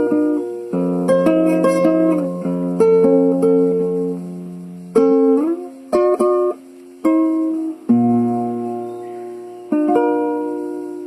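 A plucked string instrument plays a bright melody over chords. Its notes strike and ring away, a few of them sliding in pitch, and a last chord near the end is left ringing.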